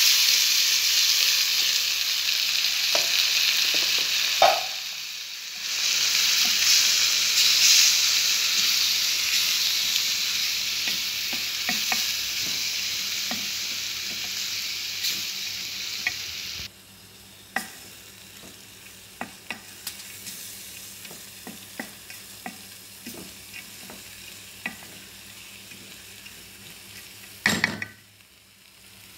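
Red lentils (masoor dal) frying and sizzling in hot oil in a metal pot while stirred with a spoon. The sizzle drops off suddenly a little past halfway, leaving quieter stirring with scattered taps of the spoon against the pot and a louder knock near the end.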